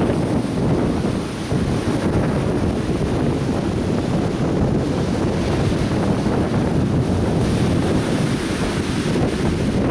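Atlantic Ocean surf breaking and washing on a beach, a steady rumbling wash of waves, with heavy wind buffeting the microphone.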